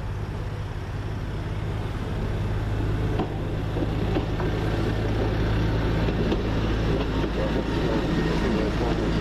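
A train engine running with a steady low drone that slowly gets louder.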